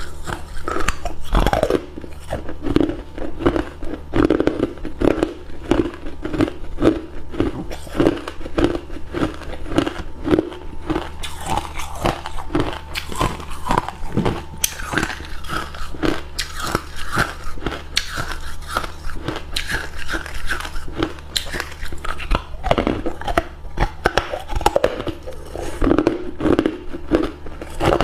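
Hard cube ice being bitten and chewed: a steady run of crunches, a few a second.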